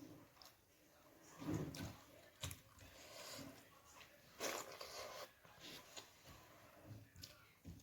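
A person eating: quiet chewing and mouth sounds, with a few short clicks.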